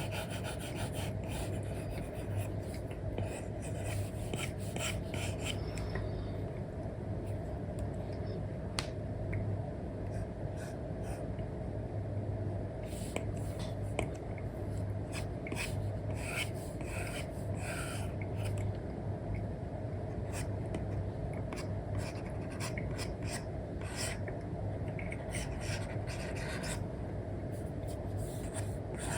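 Apple Pencil stylus, fitted with an Elecom replacement nib, scratching and tapping in many short strokes across a paper-like matte screen protector on an iPad, over a steady low hum.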